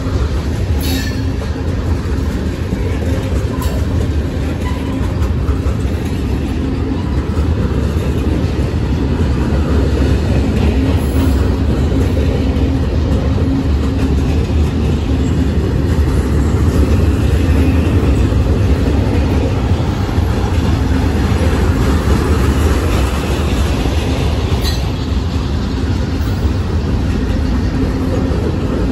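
A long freight train's cars rolling past: a steady rumble of steel wheels on rail, with a few sharp clicks.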